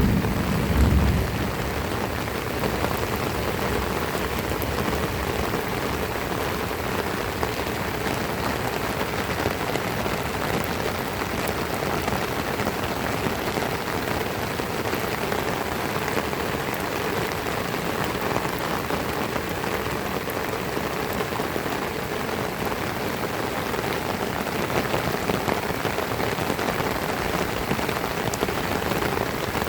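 Heavy rain falling steadily, a dense even hiss of drops striking surfaces. A short low rumble sounds in the first second and fades.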